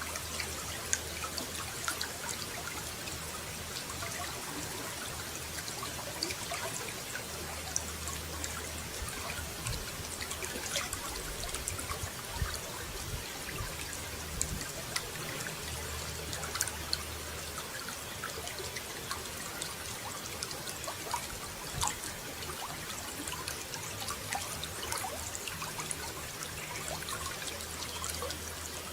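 Running water trickling and splashing: a steady stream with many small droplet splashes.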